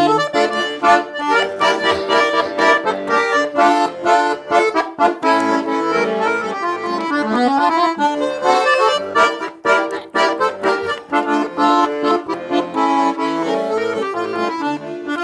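Accordion playing an instrumental break in a folk-style song: a quick melody over rhythmic chords, with no singing.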